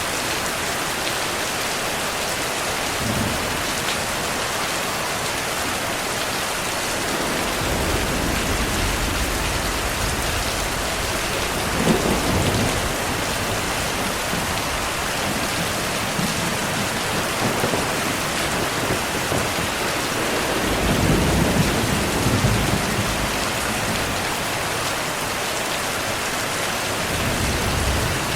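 Heavy, steady rain with thunder rolling several times: a sharper clap about a third of the way in, a longer, louder rumble about three quarters through, and a last roll near the end.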